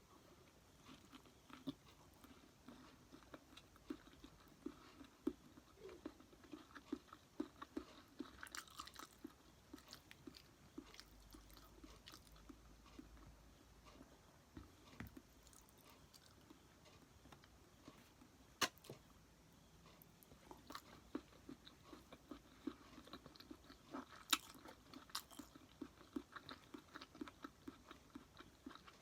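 A person chewing squid sushi close to the microphone: a steady run of soft, quick mouth clicks and smacks, with a few sharper clicks now and then.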